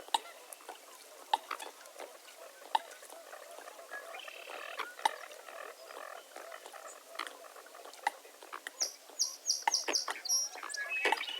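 Wetland dawn ambience: frogs croaking and clicking with many short sharp calls, mixed with bird calls, including a quick run of high notes near the end.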